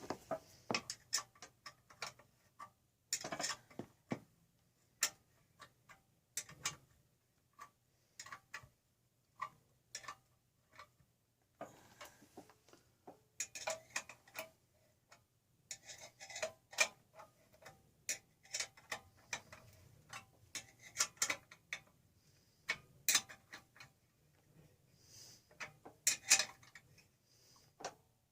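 Irregular clicks and light taps of small engine parts and hand tools being handled during reassembly, coming in clusters with short pauses, over a faint low hum.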